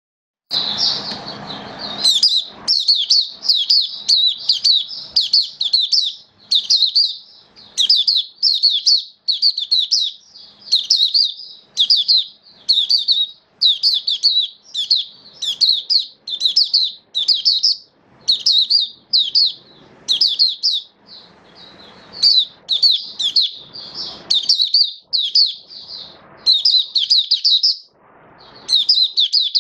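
White-eye singing in full open song: a long run of quick, high twittering phrases, each under a second, following one another with brief gaps.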